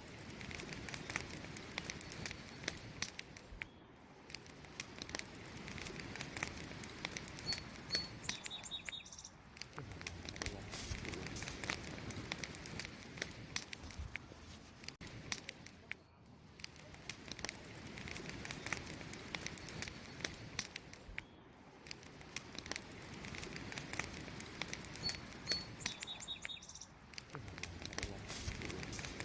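Wood campfire crackling and popping continuously, with sharp irregular snaps over a soft rush of flame. Twice, a bird gives a few short high chirps.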